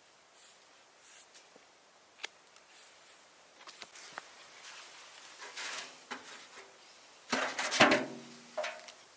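Objects being handled: scattered light clicks and rustles, then a louder clatter of knocks about seven seconds in, with a brief ringing after the impacts.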